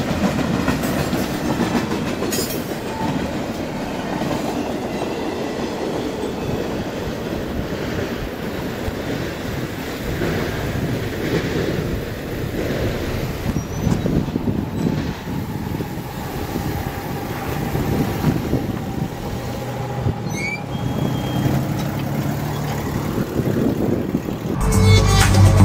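CSX double-stack intermodal freight train rolling past, a steady rumble of cars and wheels on the rails. Music comes in near the end.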